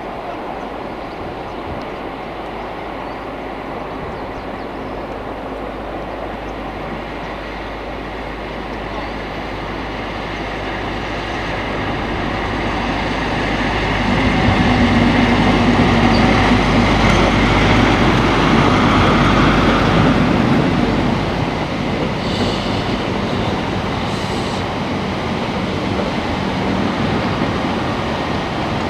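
A train passing on the line, growing louder to a peak about halfway through with a steady low engine tone, then carriages or wagons rolling by with steady wheel noise on the rails.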